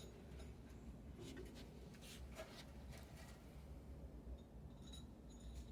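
Faint scraping and clicking of a screwdriver being worked against a stuck screw, mostly about two to three seconds in, over a low steady hum.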